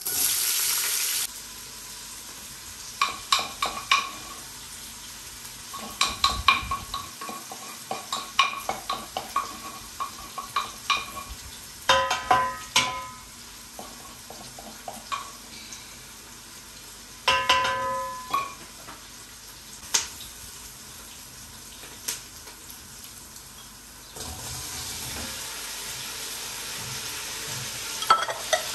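Food sizzling in a hot pot while a metal spoon stirs it, knocking against the pot with short ringing clinks. A loud burst of sizzling comes in the first second, and the sizzle grows louder again near the end.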